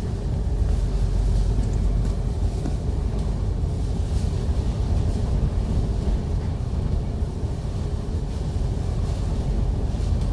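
MAN A95 double-deck city bus's diesel engine and running gear giving a steady low rumble, heard from on board while the bus is in service.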